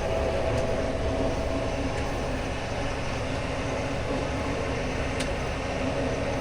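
Case IH Maxxum 150 tractor running steadily as it drives along, a continuous low engine and drivetrain drone with a faint steady hum.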